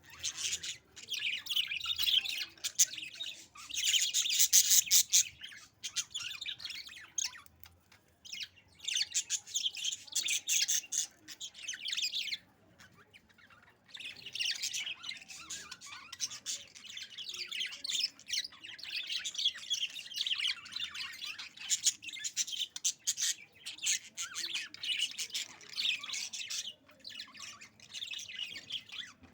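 Two budgies (budgerigars) chattering to each other: rapid warbling, chirps and clicks in bouts with brief pauses.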